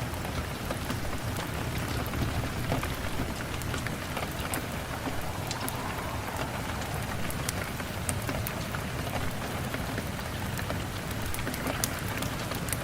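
Steady rain pattering, with scattered sharp crackles and pops from a wood fire in a fireplace.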